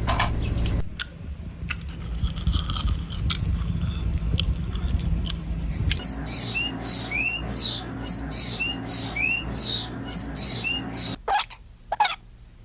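Repeated short, high squeaks or chirps from a small animal, about two a second, starting about halfway through and stopping shortly before the end, over a low rumble with scattered clicks.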